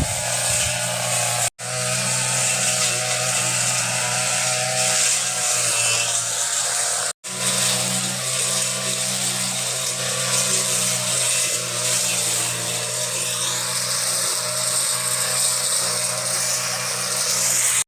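Brush cutter engine running steadily at a constant speed while clearing weeds, cutting out for an instant twice in the first half.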